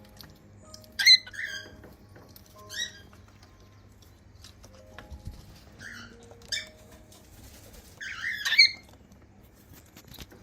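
Cockatiels giving short chirping calls every second or few seconds, with a louder burst of chirps near the end.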